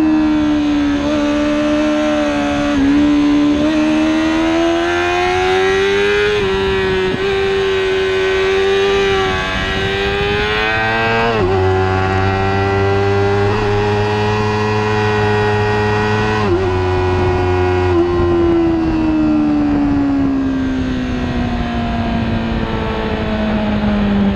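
Racing motorcycle engine running hard at high revs, heard onboard: the pitch climbs and holds with a few short breaks at the gear changes, then falls steadily near the end as the bike slows.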